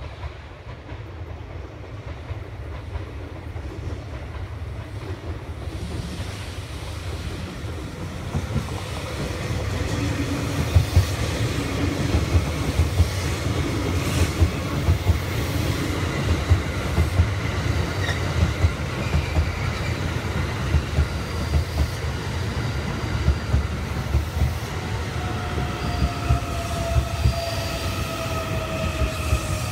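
JR East E001 series (Train Suite Shiki-shima) train departing and running past close by: a low rumble of wheels on rail that grows louder from about ten seconds in, with many short clacks. In the last few seconds a whine joins in and falls slightly in pitch.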